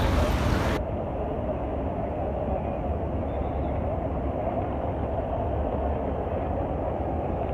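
Steady low engine rumble of a moving vehicle, with a faint hum over it.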